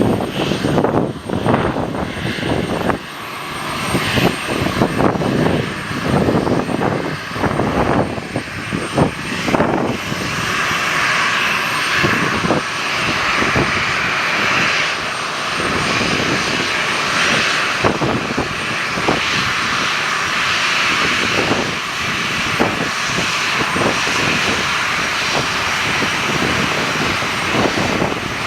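Gusty wind buffeting the microphone, then a fixed-wing aircraft's engines running steadily from about ten seconds in, a continuous hiss that holds to the end.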